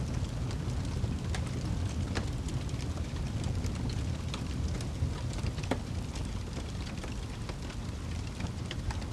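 Wood fire crackling, with sharp pops and ticks scattered irregularly over a steady low rumble.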